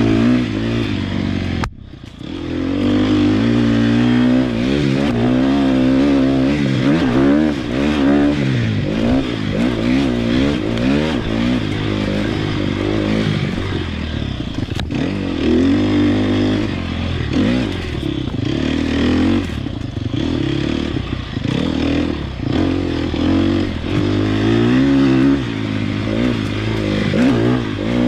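Sherco SEF 300 Factory enduro motorcycle's single-cylinder four-stroke engine, revving up and down over and over as it is ridden over rough trail, with clattering from the bike. The sound drops out briefly about two seconds in.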